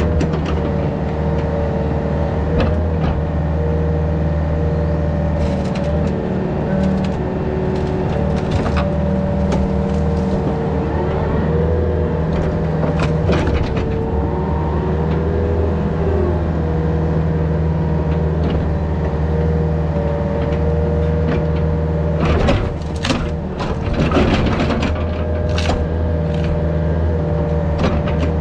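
Yanmar VIO50 mini excavator working: its diesel engine runs steadily under load with a wavering hydraulic whine, and sharp cracks and knocks come through, most thickly a little over twenty seconds in.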